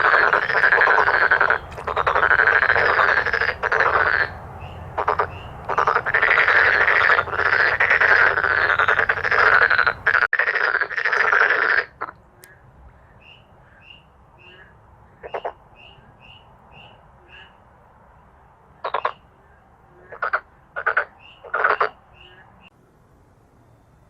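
Male dark-spotted frogs croaking loudly in chorus, breaking off about twelve seconds in. After that come fainter short high notes repeated a few times a second, and four brief croaks near the end.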